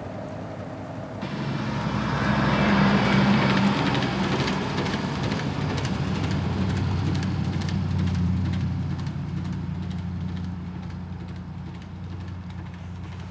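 A motor vehicle going by: a steady low engine hum with road noise that comes in suddenly about a second in, is loudest around three seconds in, then slowly fades.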